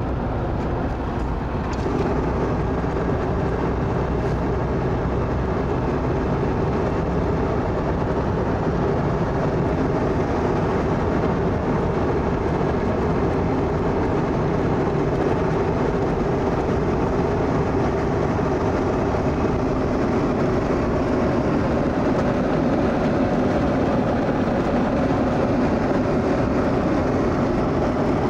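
A vehicle's steady, unbroken rumble that holds an even level throughout, with no pass-bys or gear changes.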